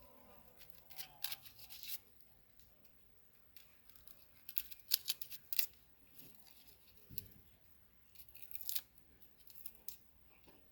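Garlic being handled and broken up by hand: short, crisp bursts of dry crackling and scratching, in clusters about a second in, around the middle, and again near the end.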